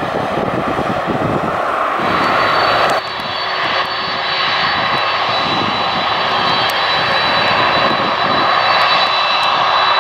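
Airliner's turbine engines running loud and steady, with a high whine coming in about two seconds in; the sound changes abruptly about a second later.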